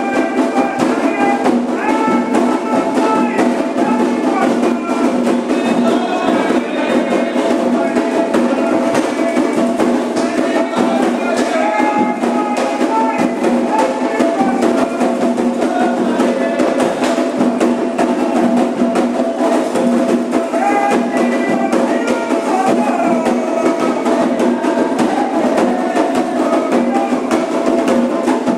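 Candomblé ritual music: hand drums and a struck bell keep up a steady, dense rhythm under a group singing a chant, continuous and loud.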